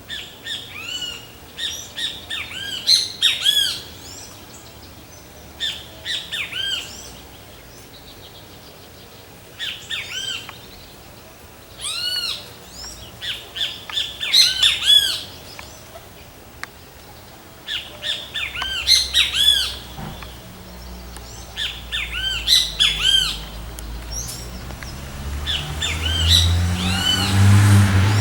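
Great kiskadee calling: bouts of loud, arching notes, repeated every few seconds. In the last ten seconds a low hum rises underneath.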